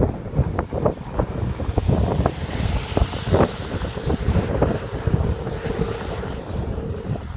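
Wind gusting and buffeting the microphone in uneven low rumbles, with a hissing gust in the middle.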